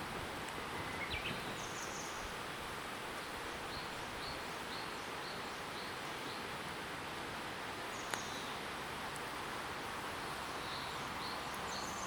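Steady outdoor rushing background with a small bird giving runs of short high chirps, about three a second, twice. There is one sharp click about eight seconds in.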